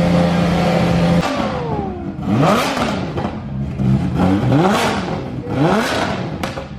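Turbocharged BMW E36 3 Series engine being revved hard: held at a steady raised idle, dropping away about a second in, then blipped up and back down several times in quick succession. It is loud.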